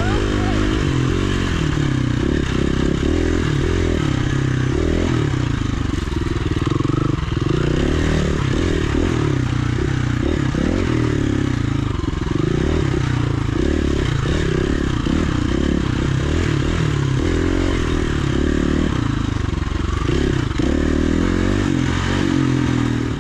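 Dual sport motorcycle engine running on a dirt trail, its revs repeatedly rising and falling with the throttle, with a steady rushing noise over it.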